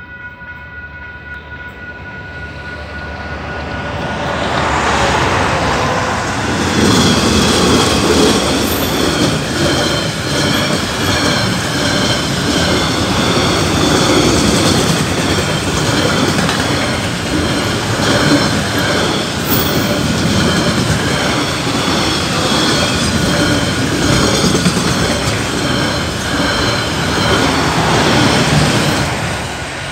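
Level crossing warning bell ringing steadily as a train comes up. From about five seconds in the passing train takes over, loud and steady, its wagon wheels clattering and squealing over the rails.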